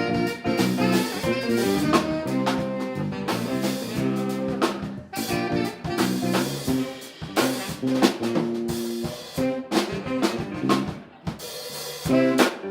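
Live band playing an instrumental groove, the drum kit prominent with snare and bass drum hits under the pitched instruments.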